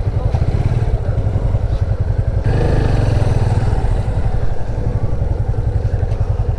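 Motorcycle engine running while riding, with a steady low, pulsing exhaust note. About two and a half seconds in it grows louder and fuller.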